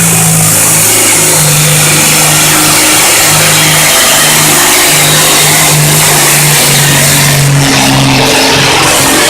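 Turbocharged diesel pulling tractor at full power hauling the sled down the track. The engine runs loud at high, steady revs, its pitch stepping slightly, under a heavy hiss.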